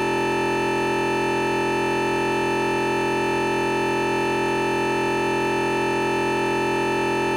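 A steady, unbroken electronic beep tone made of many stacked pitches, holding constant throughout. It is a recording glitch in place of the Zoom audio, which the uploader blames on an emergency safety text alert arriving during filming.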